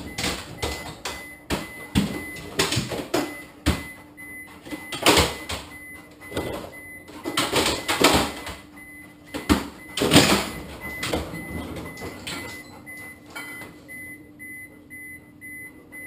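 Irregular clunks, knocks and rustling scrapes from a yellow Labrador at a refrigerator, with louder bursts of handling now and then. A faint high beep repeats steadily throughout.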